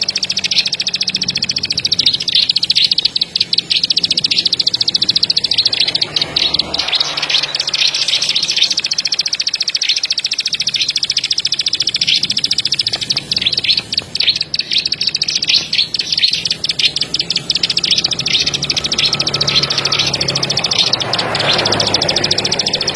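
A ciblek padi (ciblek sawah) songbird singing a long, fast, high-pitched song of rapid clicking notes, dozens a second, with a few brief pauses.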